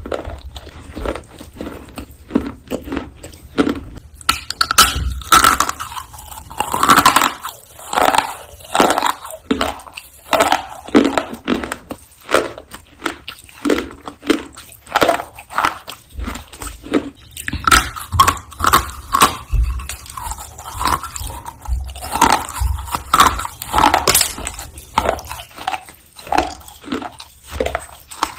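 Roasted clay being bitten and chewed close to the microphone: a steady run of crisp crunches and crackles, louder from about four seconds in.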